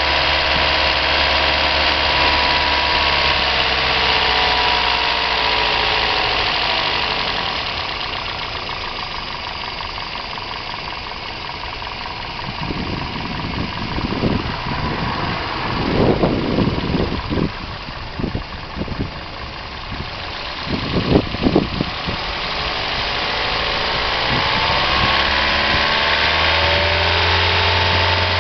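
Warm Toyota 1NZ 1.5-litre four-cylinder engine running, its note sagging and then recovering, with a cluster of sharp knocks through the middle. The owner is trying to show a knock and vibration that appear when the engine is hot.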